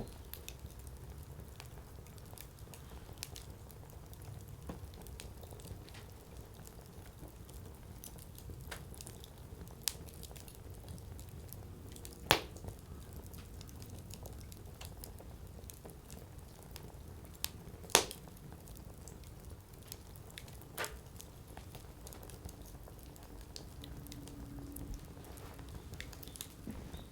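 Firewood burning in a Coleman Fire Disc: a low steady rumble with sparse crackles, and two sharp pops from the burning wood, the first about halfway through and the second some six seconds later.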